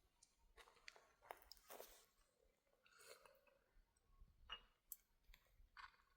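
Near silence, broken by faint, irregular short clicks and brief rustles.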